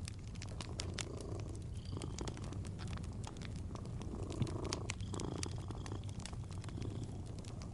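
A cat purring steadily in a low rumble that swells with each breath, over the frequent small crackles and pops of a wood fire.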